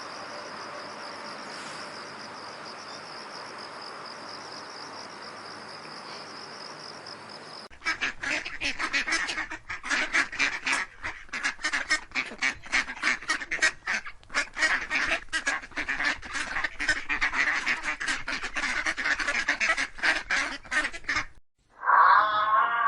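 Crickets chirping steadily in a high, fast pulse. About eight seconds in, this gives way abruptly to a flock of waterfowl honking and quacking in a dense, noisy chorus, which cuts off near the end.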